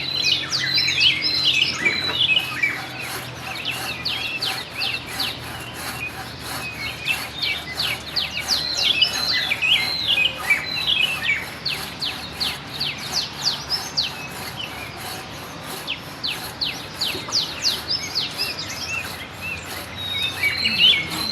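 Several small birds chirping and singing: runs of quick downward-sweeping chirps and short warbled phrases that come in clusters, one over another.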